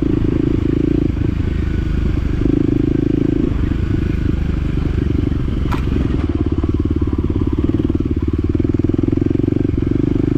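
Side-by-side's engine running steadily under way on a rough trail, its drone swelling and easing with the throttle, with a single sharp click about halfway through.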